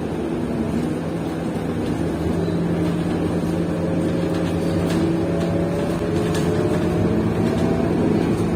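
Bus engine and drivetrain heard from inside the passenger cabin, a steady hum whose higher tones rise gradually through the middle as the bus picks up speed.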